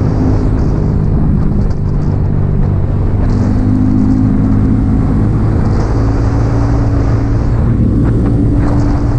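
Yamaha XSR 155's single-cylinder engine running through an aftermarket M4 exhaust pipe while riding, a steady loud engine note whose pitch shifts a little about three seconds in.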